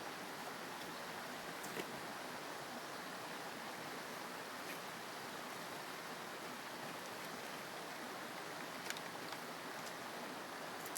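Steady rushing of flowing water from a stream or waterfall, with a couple of small clicks about two seconds in and near the end.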